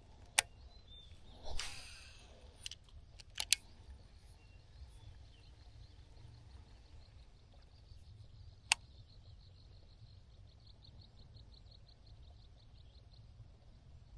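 A few sharp clicks and a short rustle, then a faint, rapid, even trill of high chirps from an animal, over a low steady rumble.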